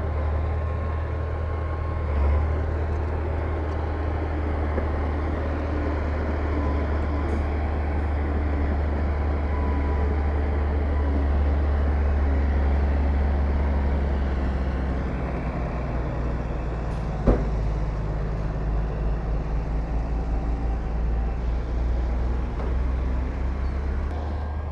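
Heavy diesel earthmoving machinery running steadily under load, its low engine note starting to pulse about two-thirds of the way through. A single sharp knock stands out near the end.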